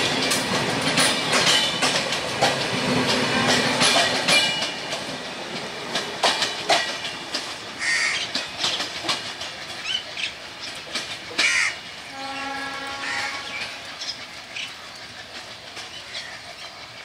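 Bangladesh Railway intercity passenger coaches rolling past and pulling away. Their wheels clack over the rail joints, with brief high wheel squeal early on, and the clatter fades as the last coach recedes.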